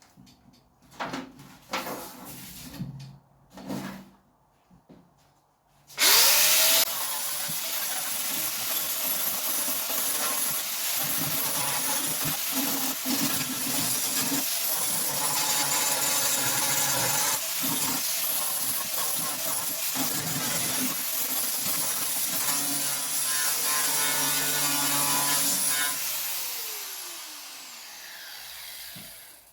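Angle grinder stripping paint and filler off a steel car door: a few knocks of handling, then the grinder starts about six seconds in and runs steadily against the metal for about twenty seconds before being switched off and spinning down with a falling whine.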